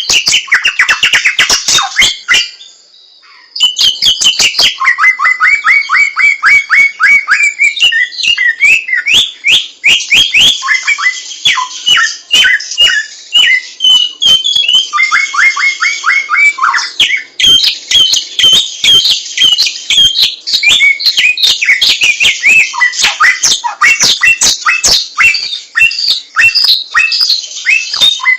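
A samyong songbird singing a fast, loud run of short notes, each sliding downward, several a second, with a brief pause about two seconds in.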